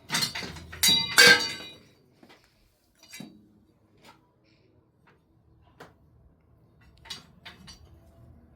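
Several sharp clinks with ringing tones, hard objects knocking together, in the first second and a half, then a few faint scattered knocks.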